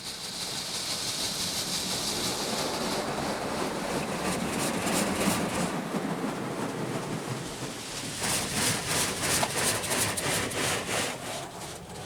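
Water jets from a Petit Accutrac 360-i touchless car wash spraying over the car, heard from inside the cabin: a steady hiss that swells, then turns into a quick pulsing patter about three quarters of the way through as the spray sweeps across.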